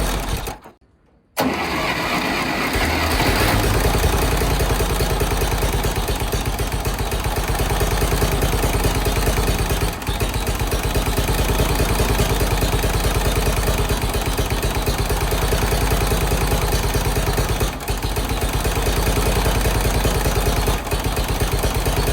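A Massey Ferguson 204's Continental gas engine catches about a second in, then settles into a steady idle with an even low exhaust pulse.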